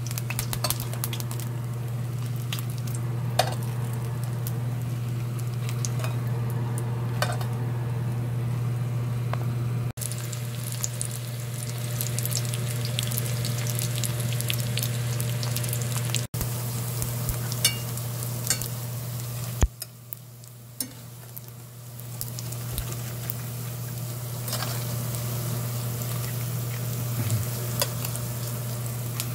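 Battered pork pieces for guobaorou shallow-frying in oil in a stainless steel pan, sizzling steadily, with scattered sharp clicks of metal tongs against the pan. A steady low hum runs underneath, and the sizzle drops quieter for a couple of seconds about two-thirds through.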